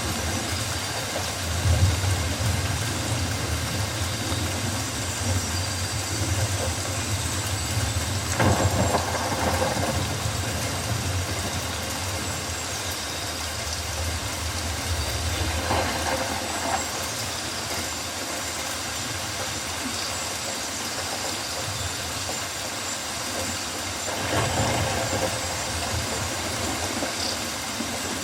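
Rainforest ambience: steady rain falling on foliage, under a low rumble that swells a few times.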